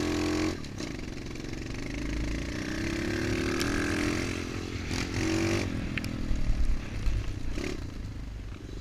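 MXF 125 dirt bike's engine being ridden, revving up and easing off: the pitch drops as the throttle is closed about half a second in, then climbs again over the next few seconds. A few short knocks and clatter come near the two-thirds mark.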